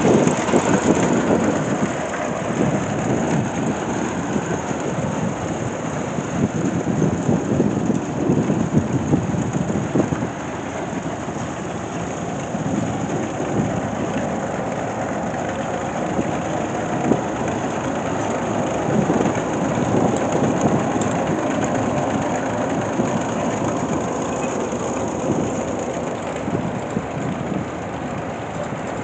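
Heavy antique machinery running: a loud, steady, dense mechanical clatter and rush, a little louder for the first ten seconds or so.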